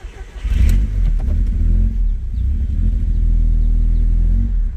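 Audi TT's 1.8T turbocharged four-cylinder engine starting about half a second in and settling into a steady idle. This is the first start after a throttle body adaptation on a newly fitted Grams 70 mm throttle body.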